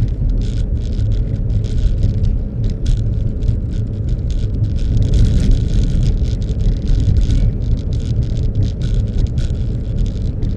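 Car on the move: a steady low rumble, with many short crackles on top.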